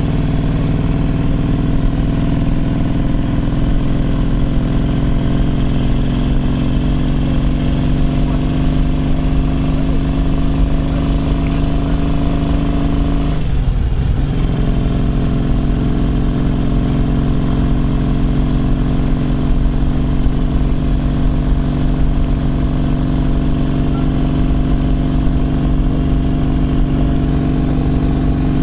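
Brough Superior SS100's V-twin engine running steadily. About halfway through, the note dips briefly and then picks back up.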